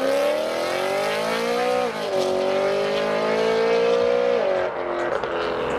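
Loud modified car accelerating hard away. Its engine pitch climbs, drops at an upshift about two seconds in, climbs again and drops at a second upshift near four and a half seconds.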